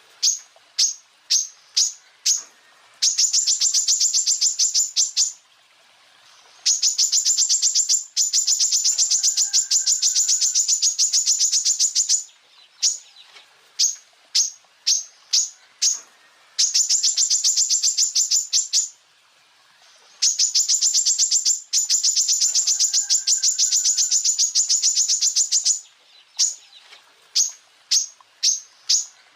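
Greater green leafbird (cucak ijo) song: loud, sharp high notes, first a few spaced chips, then long rapid-fire trills of evenly repeated notes lasting several seconds. Spaced chips and trills alternate in a repeating cycle, broken by short pauses.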